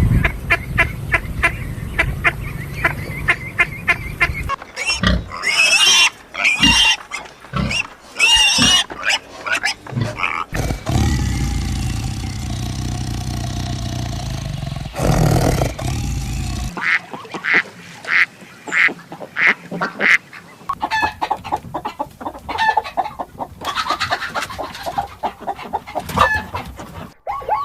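Poultry calling in a run of short clips: fast runs of repeated short calls, with some louder, higher cries between them.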